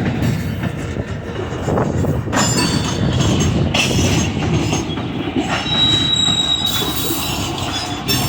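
Train rolling past, its wheels rumbling steadily and clacking over the rail joints, with a thin high wheel squeal from about five and a half seconds in.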